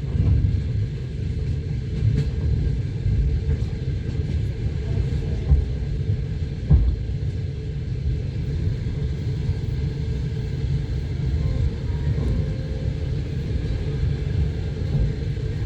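Passenger train running on the rails: a steady low rumble of the wheels with a few louder knocks, the sound of the wheels over the rail joints, heard from inside the carriage.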